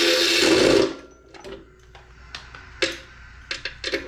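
A power tool, such as a drill or driver, runs for about a second, backing out bolts, and then stops. Scattered clicks and knocks of metal parts and tools being handled follow.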